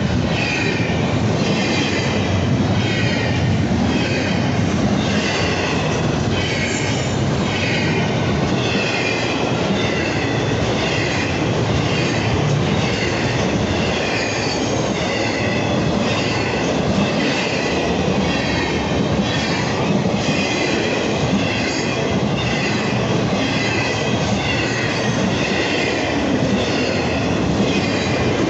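Train cars rolling steadily past: a continuous rumble of steel wheels on rail, with high wheel squeal and a clatter that recurs about once a second.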